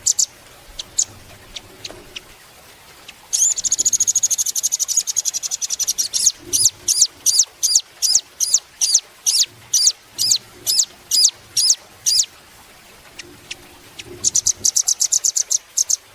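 Velvet-fronted nuthatch singing loud, high notes: a few sharp chips, then a fast rattling trill about three seconds in, then a run of repeated ringing notes at about three a second, and another fast trill near the end.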